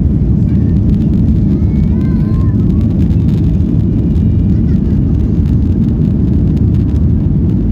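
Steady, loud low rumble inside the cabin of a Boeing 737-800, heard from a window seat behind the wing: its CFM56 engines running, with airframe noise. A faint voice is heard about two seconds in.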